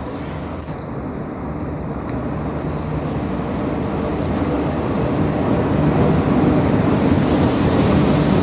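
SNCF electric locomotive hauling a passenger train into a station: a steady rumble and hum that grows louder as it approaches. A hiss joins about seven seconds in.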